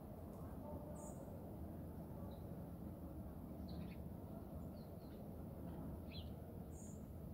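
Small birds giving short, high chirps, about half a dozen scattered calls, over a faint, steady low background rumble.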